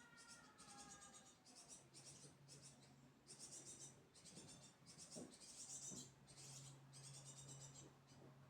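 Great tit fledglings' begging calls: a faint, irregular run of short, high, hissing-buzzy bursts, roughly two a second. A low steady hum sets in about two seconds in.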